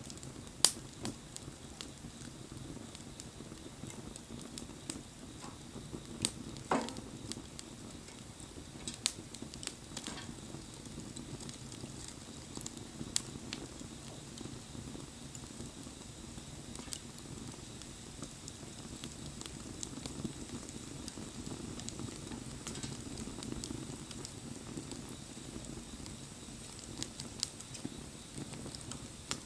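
Wood bonfire burning: a steady low rush of flames with scattered sharp crackles and pops. The loudest pop comes just under a second in.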